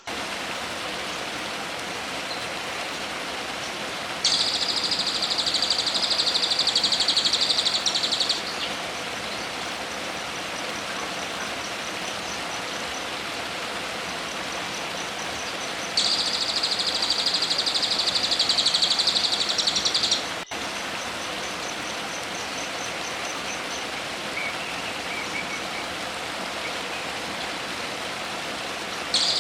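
A songbird's high, rapid buzzing trill, each about four seconds long, given twice and starting a third time at the very end, over a steady hiss of background noise; faint fast ticking notes come between the trills.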